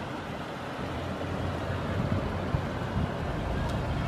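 Engine of a Lexus SUV running at low speed, a steady low hum that grows a little louder toward the end.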